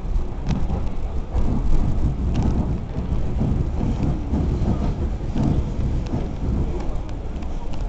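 Inside an ED4M electric train running at speed: a steady, loud low rumble of the running gear on the track, with a few sharp clicks and rattles scattered through it.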